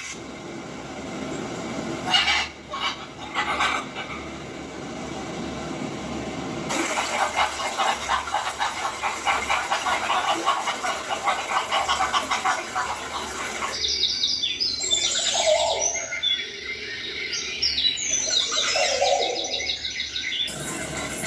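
Small birds chirping: a fast, dense chatter through the middle, then quick high chirps rising and falling over the last several seconds. A few sharp knocks about two seconds in are the loudest moment.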